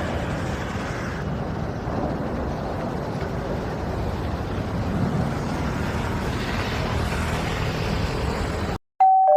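Steady noise of road traffic passing beside the road, which cuts off abruptly near the end. A bright chime starts right after.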